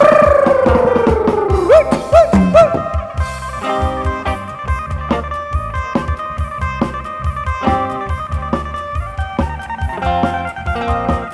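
Amplified Isan-style band music: an electric phin (Thai plucked lute) playing a melody over a drum kit with a steady beat. It opens with a long falling glide in pitch, then a few short swoops.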